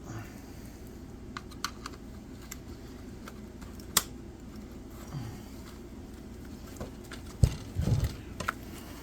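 Scattered clicks and knocks of hand tools and metal chainsaw parts being handled during teardown, with a sharp click about four seconds in and a louder knock followed by a short clatter near the end, over a steady low hum.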